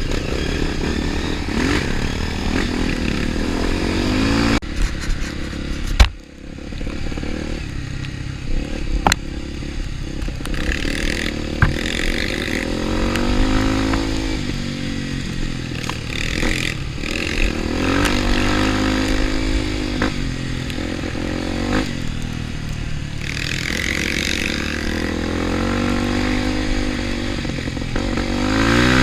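Trail motorcycle engine running and revving up and easing off again several times. A few sharp knocks, the loudest about six seconds in.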